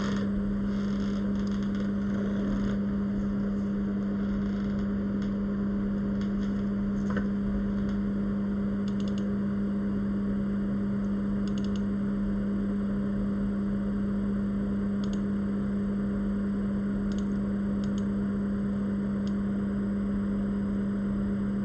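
A steady low hum with a faint hiss, holding one pitch and an even level throughout, with a few faint soft ticks.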